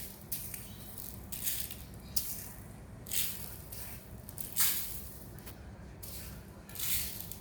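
Dry uncooked rice grains being poured and scooped, rattling in short hissy bursts, about six or seven times.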